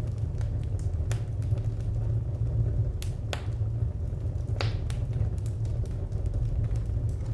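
Wood fire crackling: scattered sharp pops and small ticks over a steady low rumble, with the loudest pops about three and a half and four and a half seconds in.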